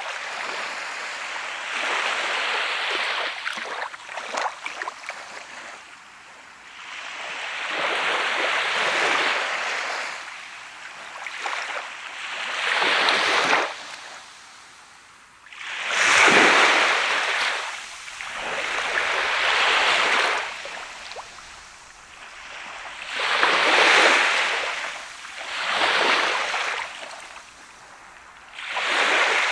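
Sea waves breaking and washing up a sandy beach, a hissing surge that rises and falls again every three to four seconds.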